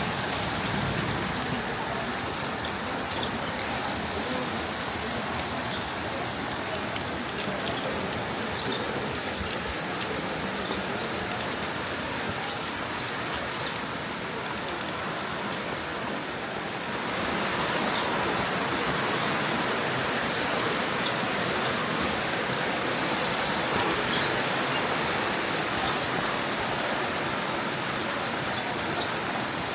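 Steady rain falling, growing louder a little past halfway through.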